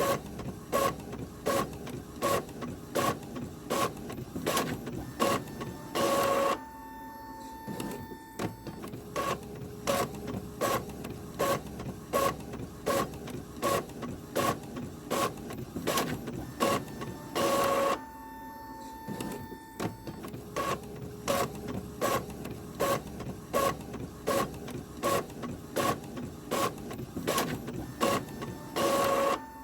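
Printer running with paper: a regular clicking about two times a second as the sheet advances, broken about every eleven seconds by a brief louder whir and a short steady whine.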